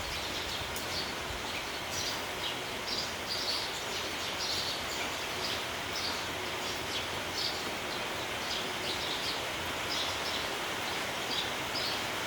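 Flock of sparrows chirping over a steady hiss of rain: many short, high chirps scattered throughout.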